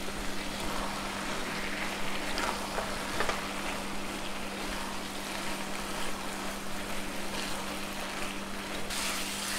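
Grated carrots and mawa frying in ghee in a nonstick kadhai, a soft steady sizzle with the light scrape of a silicone spatula stirring now and then, over a steady low hum.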